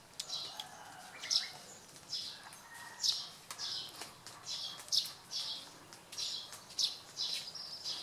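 Small birds chirping: short, high chirps repeated about twice a second, with a faint higher-pitched whine in the first second or so.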